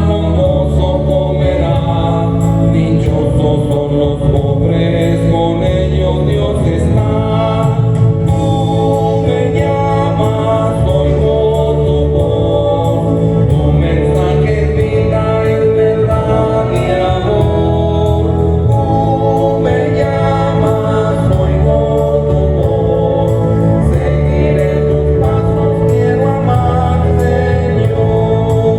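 A choir sings a Spanish Catholic entrance hymn live, over steady sustained keyboard-organ chords and bass notes. The recording is of low quality.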